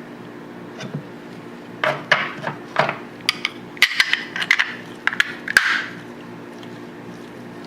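Tokarev TT-33 pistol parts clicking and knocking against each other and against tools as the pistol is reassembled: a quick, irregular run of sharp metal taps over a few seconds, over a steady low hum.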